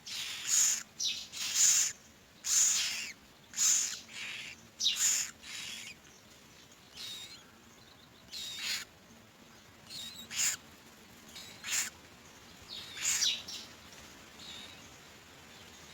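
Common mynas at the nest giving harsh, raspy calls in short bursts. The calls come about one or two a second for the first several seconds, then more sparsely.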